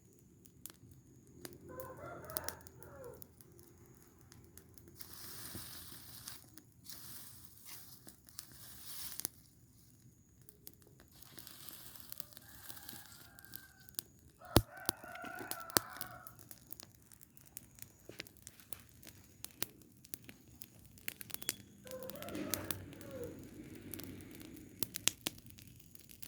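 Roosters crowing three times, over the steady crackle and snapping of a burning rubbish heap, with a few stretches of hissing in between.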